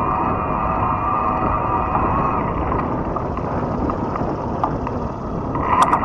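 Fat-tire e-bike riding: rumbling wind and tyre noise with a steady whine from the motor drive. The whine fades about two and a half seconds in and comes back near the end, along with a couple of sharp clicks.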